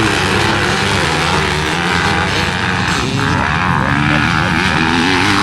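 Motocross dirt bike engine running hard under racing load, its revs rising and falling, over a steady rushing noise.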